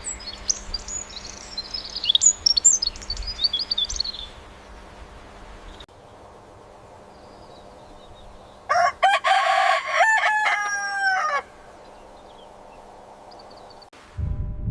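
Small birds chirping in quick high notes, then after a quiet pause a rooster crows once, a long call of about three seconds.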